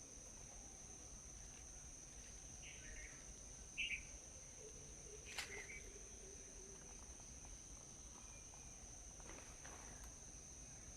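Steady high-pitched insect drone in the background, with a few short bird chirps about three and four seconds in and a sharp click near the middle.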